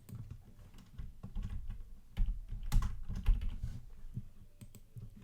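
Typing on a computer keyboard, a quick irregular run of key clicks, busiest in the middle.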